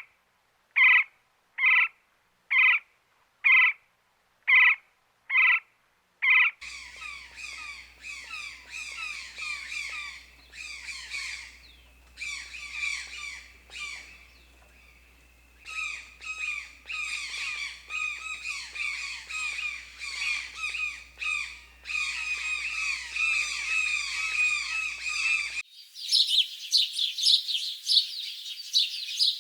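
Birds calling: a run of short, evenly spaced squawks, then a dense chorus of chirping from many birds, which cuts sharply about 26 seconds in to a different, higher-pitched twittering.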